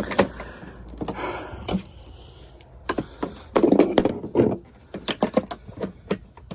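Irregular knocks, clicks and thumps of handling and moving about, with a louder cluster of thumps in the middle.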